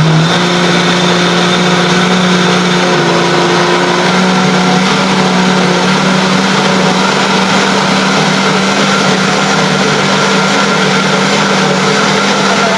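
Electric kitchen blender running steadily at full speed, its motor pitch settling just after it starts, as it blends a thick cake batter to break up the lumps.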